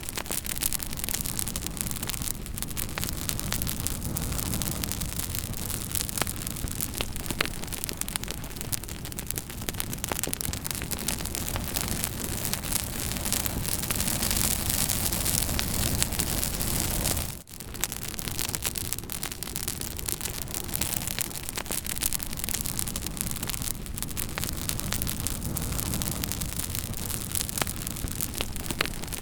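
Campfire burning, wood crackling and popping with many small sharp snaps over a steady rushing hiss and low rumble. The sound briefly drops out about halfway through, then resumes.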